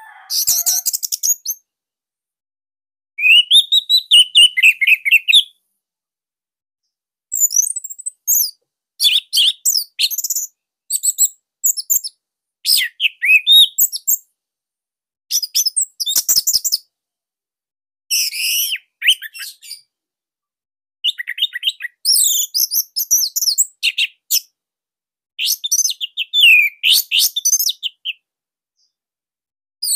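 Orange-headed thrush (anis merah) singing in about ten short bursts of rapid, high chirps and whistles, separated by brief pauses. The notes come loud and tightly packed.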